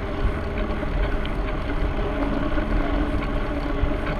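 Wind rushing over the microphone of a moving bicycle, with road noise and a faint steady hum joining about halfway through.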